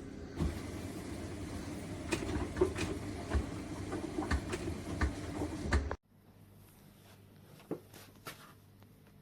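A steady low machine hum with scattered clicks and knocks, cutting off suddenly about six seconds in, after which only faint clicks remain.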